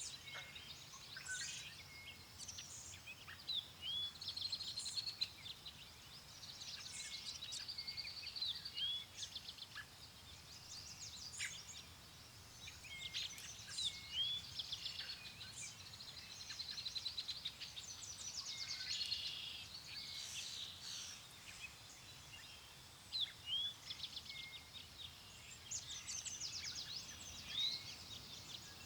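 Several songbirds calling throughout, with short chirps, rising whistles and quick trills, over a faint low rush of wind.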